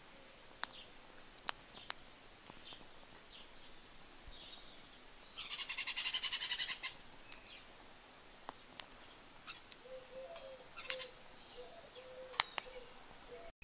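Garden birds calling. A bird gives a rapid rattling call for about a second and a half near the middle, and sharp isolated clicks are scattered through the rest.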